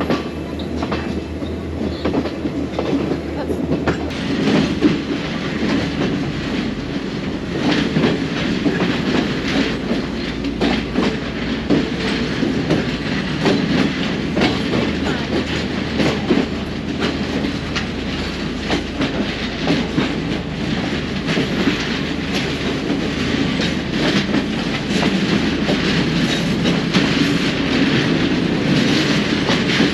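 Passenger train carriage running along the track, heard from an open carriage window: a steady rumble with wheels clacking over the rails.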